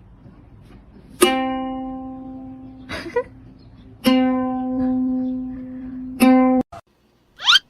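Three single notes plucked on a string instrument, all at about the same pitch, each ringing and fading, the third cut off short. A brief scratchy noise falls between the first two, and a quick rising whistle-like sweep comes near the end.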